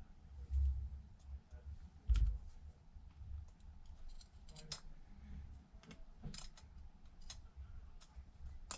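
Small scattered clicks and taps of hand tools and small parts being handled on a workbench, with a couple of low bumps against the bench, while a home button is lined up on a tablet screen.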